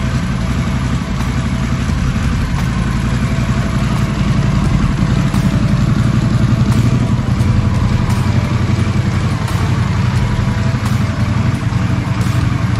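Harley-Davidson Pan America's liquid-cooled Revolution Max 1250 V-twin idling steadily.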